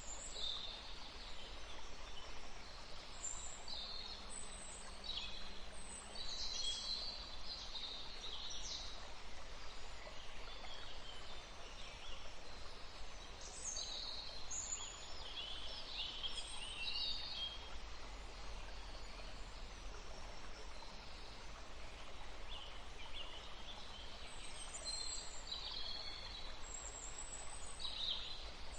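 Small songbirds chirping, short high calls coming in clusters with brief lulls, over a low steady rumble of background noise.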